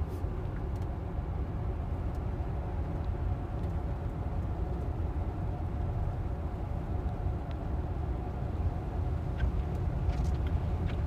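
Steady road and tyre noise heard inside a Tesla's cabin while it drives on a wet, rainy road: a low, even rumble with a faint steady hum above it.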